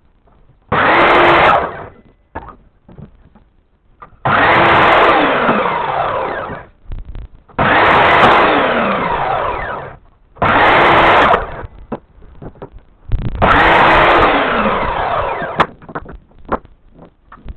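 A handheld electric power tool run in five short bursts of one to two and a half seconds, its motor pitch rising and then dropping within each burst as it works under load.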